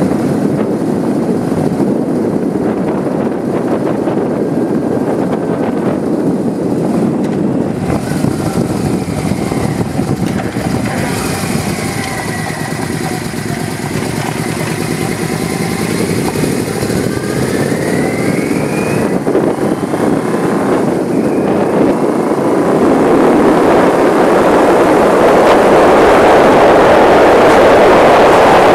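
Motorcycle riding along with its engine running and wind noise on the microphone. The engine pitch rises and falls through the middle, and the wind noise grows louder near the end.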